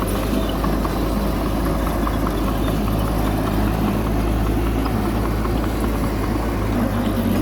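Bulldozer's diesel engine running steadily at an even pitch, a constant low rumble with faint ticks over it.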